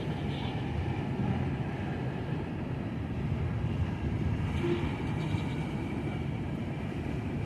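Freight train cars rolling past: a steady rumble and clatter of steel wheels on rail, with no break.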